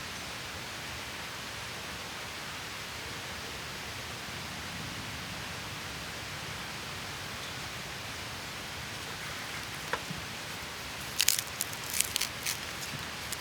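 A steady, even hiss, with a few sharp crackles about eleven to thirteen seconds in.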